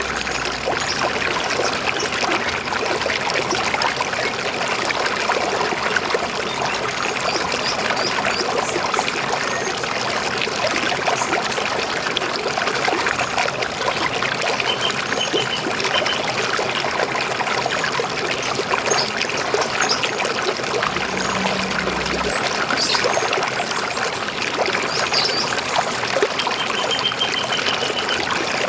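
River water flowing and splashing steadily, with a few short bird chirps and brief rapid trills above it.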